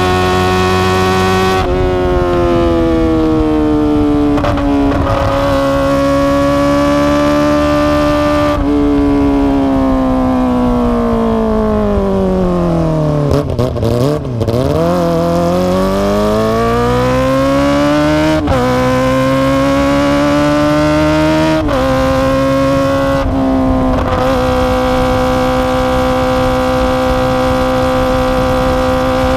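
Kawasaki ZX-25R's 250 cc inline-four running through an Akrapovic exhaust while riding. Its pitch steps at several gear changes, sinks to a low point about halfway through as the bike slows, climbs again through more shifts, and holds a steady note near the end.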